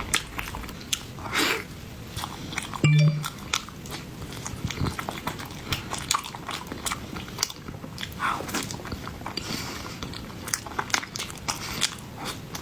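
Close-miked chewing of soft, cream-filled snow skin mochi, with many short, wet, sticky mouth clicks and smacks. A brief low sound, a hum or gulp, comes about three seconds in.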